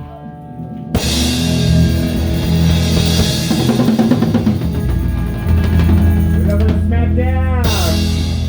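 Live rock band playing a Pearl drum kit with cymbal wash and sustained electric guitar and bass chords: the close of a song, after a short break in the drumming.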